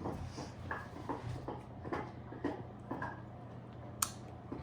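A quiet room with a series of faint, short clicks and taps about every half second, and one sharper click about four seconds in.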